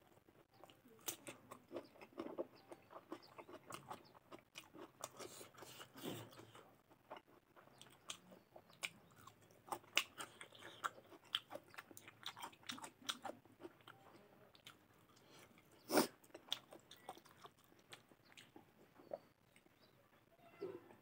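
Close-up eating sounds: crunchy bites of raw cucumber and chewing of rice with curry, many irregular wet mouth clicks and crunches. One sharper, louder click about sixteen seconds in.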